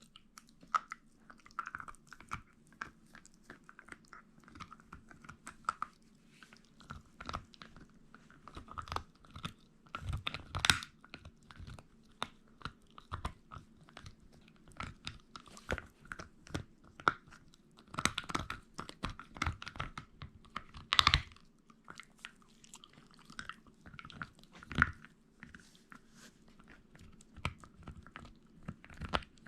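Shiba Inu dog gnawing and crunching on meat: irregular crunching bites and chews, some much louder than others, with a faint steady hum beneath.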